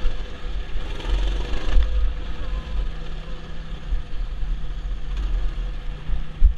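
Mini bike's small engine running steadily, with a heavy low rumble and a brief rise in pitch about a second in.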